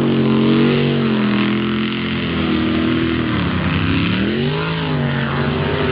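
An engine running loudly and steadily, its pitch sagging about three and a half seconds in and then climbing back up.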